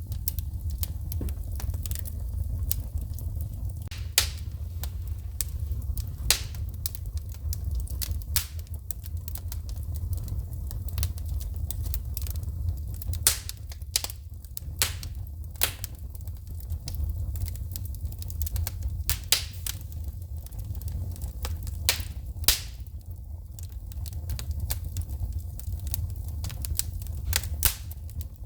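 Wood fire burning in a fireplace, crackling with irregular sharp pops as sparks shoot, over a steady low rumble of the burning fire.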